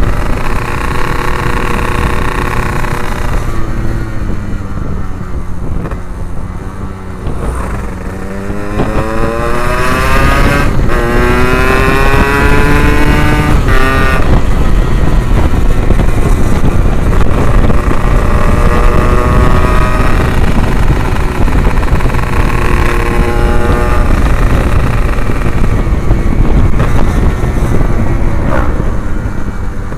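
Yamaha RX King's 135 cc two-stroke single running through an aftermarket Abbox C20 exhaust while being ridden. The engine note falls as the bike slows a few seconds in, then climbs steeply through a couple of gear changes and settles into a steady cruise.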